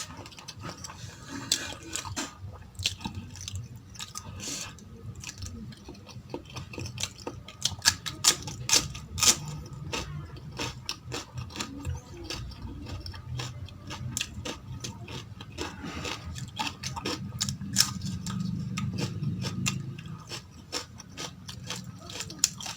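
Close-miked chewing and wet mouth sounds of a person eating mutton tahari rice with gravy: a steady run of sharp smacks and clicks, thickest about eight to ten seconds in.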